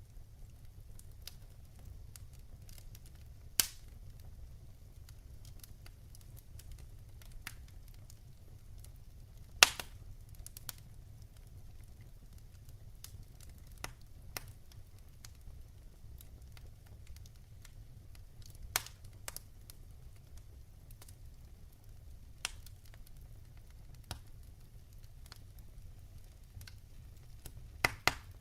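Wood fire burning in a fireplace: a low steady rumble under scattered crackles, with sharp log pops, the loudest about ten seconds in and a quick pair near the end.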